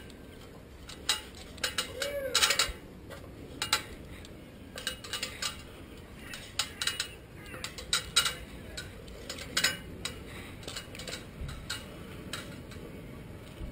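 Irregular clicks, taps and scrapes of hands working at a gap in concrete to free a bird's stuck beak, with one short squeak about two seconds in.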